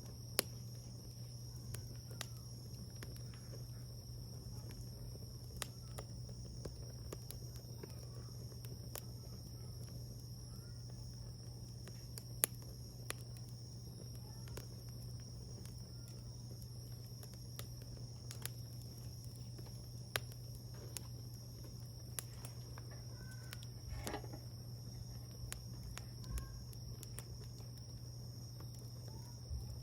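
Wood fire crackling, with scattered sharp pops at irregular moments, over a steady low hum.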